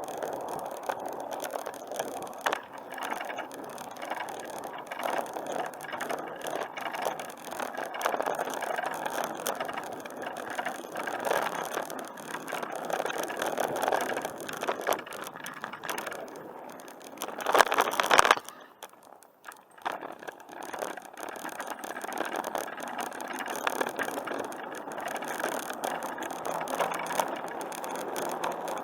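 Bicycle being ridden along a paved trail: steady rattling and clicking from the bike. About seventeen seconds in there is a brief louder burst, then nearly two seconds of much quieter sound before the riding noise comes back.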